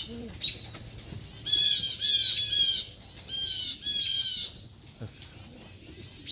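Crows and blue jays mobbing an owl: a run of harsh, repeated alarm calls in two bursts, after one early call.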